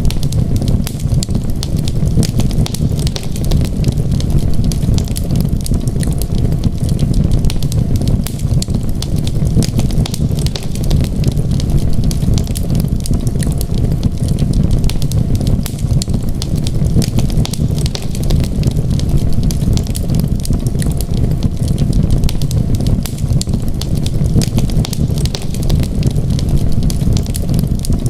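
Wood fire crackling in a fireplace, with frequent quick pops and snaps over a steady low rumble.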